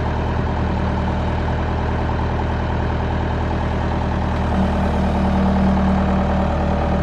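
Engine of a large machine running steadily; about four and a half seconds in, a stronger hum joins and the sound gets a little louder, as the engine takes more load.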